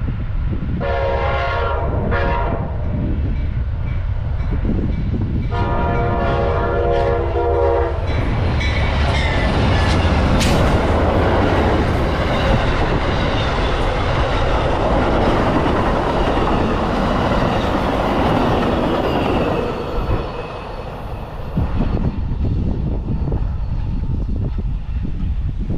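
An Amtrak passenger train's horn sounds two short blasts and then a longer blast, after which the train passes close by with its wheels rumbling and clattering over the rails. The passing noise fades after about twenty seconds.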